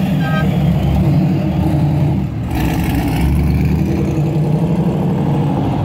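Car engines running at low speed as cars pull out, then the V12 of a red Lamborghini Countach revving up as it accelerates away, about two and a half seconds in.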